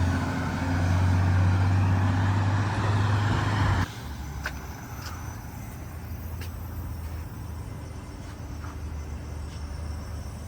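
Street traffic: a motor vehicle's engine running close by with a low steady drone and road noise, cut off abruptly about four seconds in. After that, quieter street background with scattered light clicks.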